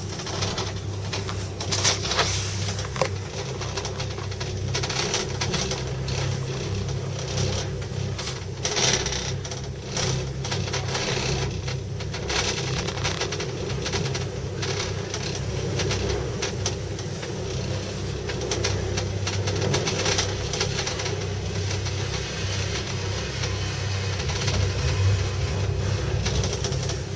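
Ski gondola cabin riding in strong wind: a steady low mechanical hum with a rushing haze over it, broken by scattered clicks and knocks.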